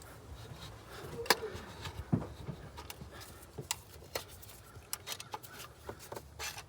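Scattered light clicks and knocks of something being handled, the sharpest about a second in, over a low steady background hum.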